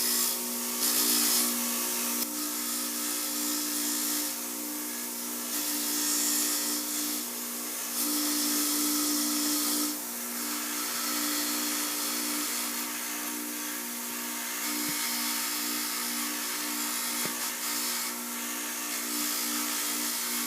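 Power wire-brush tool running with a steady motor hum while its spinning wire wheel scours paint off steel caboose handrails, a harsh hiss that swells and eases every few seconds.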